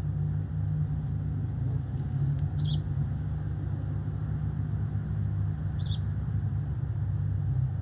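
A steady low rumble with a small bird's short, high chirp falling in pitch twice, about three seconds apart.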